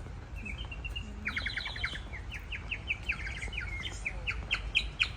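A songbird singing a long run of quick, repeated short chirps, getting louder near the end, over a steady low rumble.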